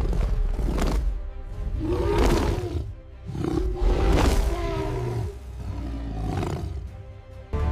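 Lions roaring over background music: two long roars, about two and four seconds in, above a steady low rumble.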